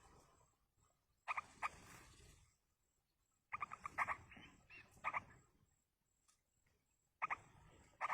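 Yellow-vented bulbuls calling in short bursts of rapid chattering notes, four bursts a couple of seconds apart, typical of chicks begging at the nest as a parent feeds them.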